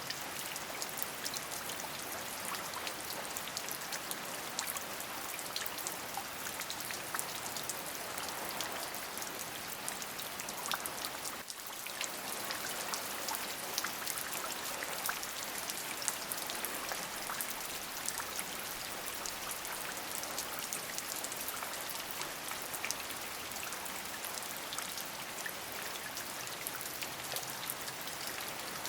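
Steady rain falling, an even hiss with many separate drop ticks through it. The level dips for a moment about eleven seconds in.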